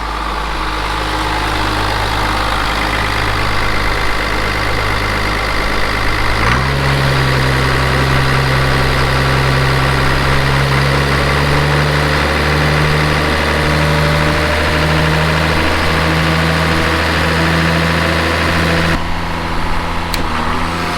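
An engine running steadily. About six seconds in it steps up in speed, then holds there with a slow further rise in pitch.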